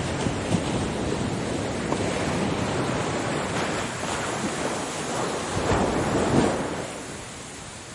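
Ocean waves washing on a shore: a continuous rush of surf that builds to a louder break about six seconds in, then eases.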